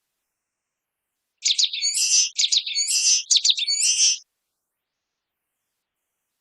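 Common waxbill singing: three quick repeated high-pitched phrases, each a few sharp notes followed by a buzzy note, starting about a second and a half in and stopping after about three seconds.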